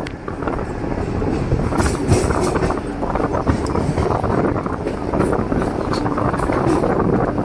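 Mumbai suburban electric local train running, heard from its open doorway: a steady rumble of wheels on the rails, broken by irregular sharp clicks and clatters.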